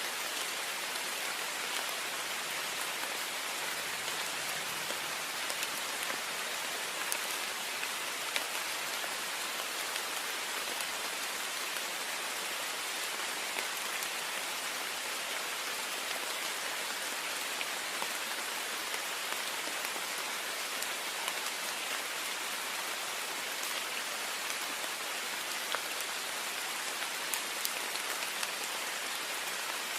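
Heavy rain falling steadily on a window: a dense, even hiss with many small sharp drop ticks scattered through it.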